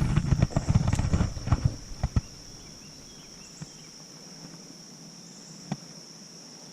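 Irregular knocking and clattering for about two seconds, then much quieter with a steady high-pitched hum and a couple of faint single knocks.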